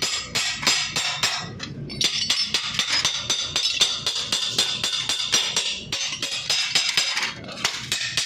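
Hammer striking the sheet-metal body panel of a car in quick repeated blows, about five a second, with a metallic ring: panel beating to work out a dent.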